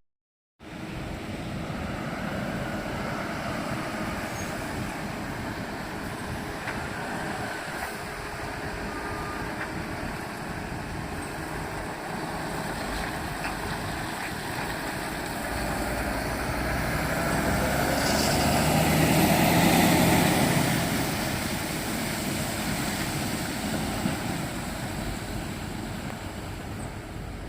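Heavy double-trailer truck going by: a steady rumble that builds to its loudest about twenty seconds in, with a high whine falling in pitch as it passes, then fades.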